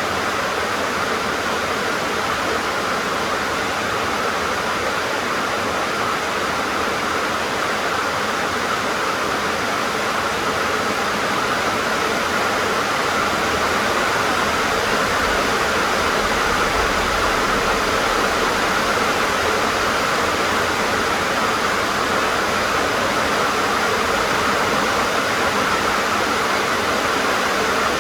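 Heavy rain drumming on a tin (sheet-metal) roof, a dense, steady hiss that grows a little louder about halfway through.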